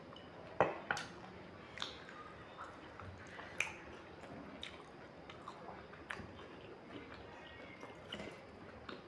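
Chewing and mouth sounds of people eating roasted chicken legs by hand: a scatter of short sharp clicks, the loudest about half a second in and another a few seconds later.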